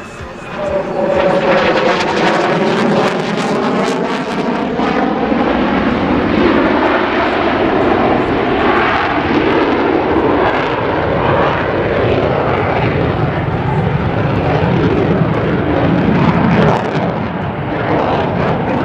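Loud jet noise from an F-22 Raptor's twin Pratt & Whitney F119 turbofans as it flies past. The noise swells sharply about a second in, with falling tones early on, holds strong, and eases slightly near the end.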